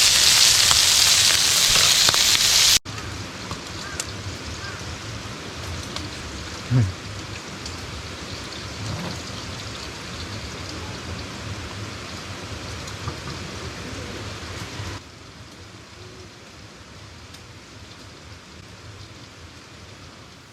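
Steady rushing water of a mountain stream in three cut shots: loud and close for the first few seconds, then quieter, then quieter still for the last five seconds. A brief low thump about seven seconds in.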